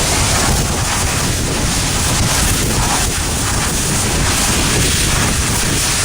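Pressure washer spraying mini bike parts clean: a loud, steady rushing hiss that swells and eases a little as the spray moves over the parts.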